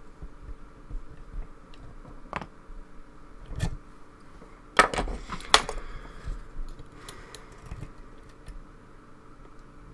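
Lock picks and a tension bar working in a challenge lock: scattered small metallic clicks and ticks, with a louder clatter of metal on metal about five seconds in.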